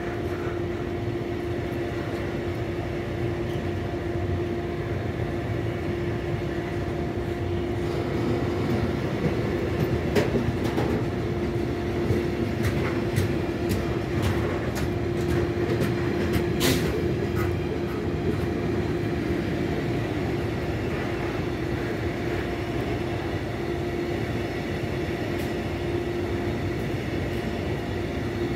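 A train running on the track: a steady hum over a rumble, with a run of sharp clicks from the wheels partway through, where it is a little louder.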